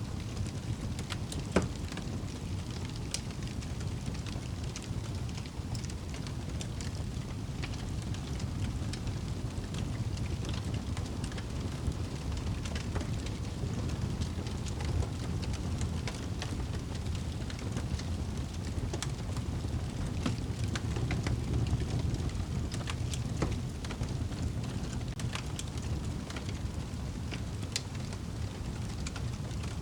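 Fireplace fire crackling, with scattered sharp pops and one louder pop about a second and a half in, over a steady low rumble.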